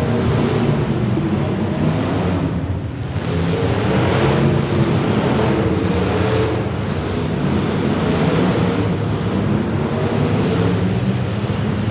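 Several demolition derby car engines running and revving together, with pitches that rise and fall.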